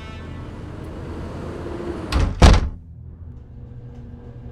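A door shutting, with two heavy knocks close together about two seconds in. A steady rushing noise stops as the door closes, leaving a quieter low hum.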